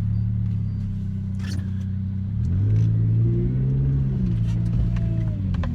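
Car engine heard from inside the cabin while driving, its note rising as the car accelerates about two and a half seconds in, then dropping back as it eases off. A couple of faint clicks are heard.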